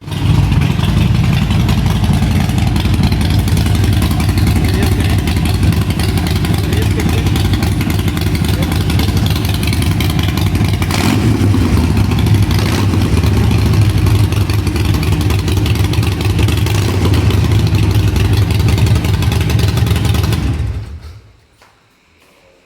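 Motorcycle engine running steadily, then stopping about twenty seconds in.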